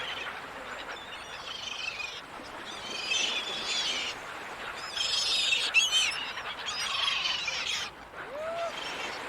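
Gulls calling in four bursts of repeated, wavering cries, each about a second long, with a single lower call near the end, over a steady rush of background noise.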